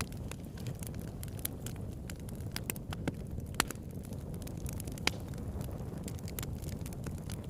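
Campfire burning: a steady low rush of flames with irregular sharp crackles and pops of burning wood, one louder pop about three and a half seconds in.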